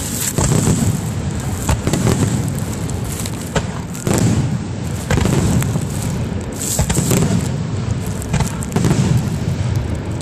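Aerial fireworks display: a dense, continuous run of booms and sharp pops from shells bursting, overlapping one another with hardly a pause.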